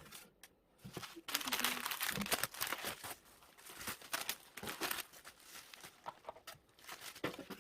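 Packaging material being crumpled and handled during parcel packing: irregular crinkling and rustling, loudest and densest between about one and two and a half seconds in, then continuing in shorter bursts.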